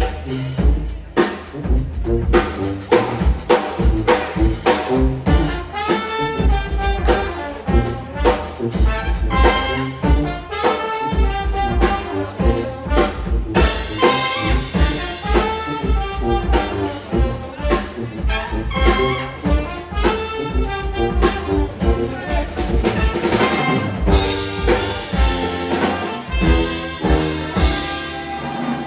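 Live brass band playing an upbeat jazz-style tune: trumpets and trombones over a drum kit keeping a steady beat.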